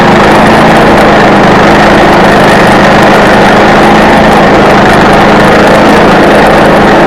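Small petrol engine running steadily at high speed, with no let-up, typical of a chainsaw mill cutting through a log.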